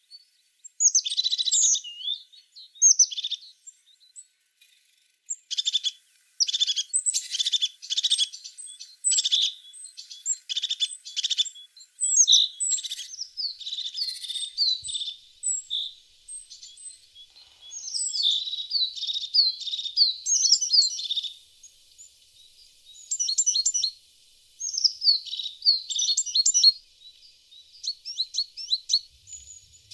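Tits singing and calling: bursts of high-pitched chirps and quick trills, broken by short pauses, with phrases sometimes overlapping.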